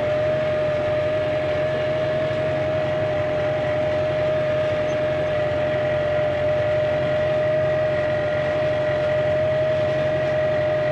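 Tractor engine running steadily while pulling a grassland slitter: an even low drone with a single steady high whine over it.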